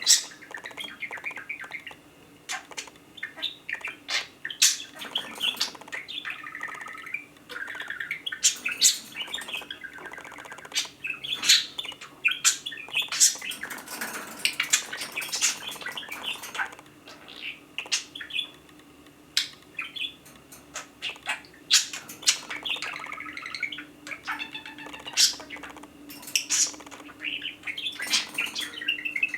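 Pet budgerigars chirping and chattering in a rambling warble, with many sharp clicks in among the calls.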